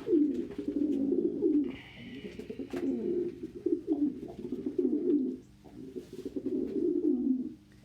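Several domestic pigeons cooing in overlapping, repeated phrases, with a brief higher-pitched sound about two seconds in.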